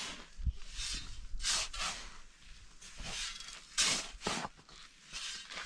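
Several short, irregular scraping strokes with no steady rhythm.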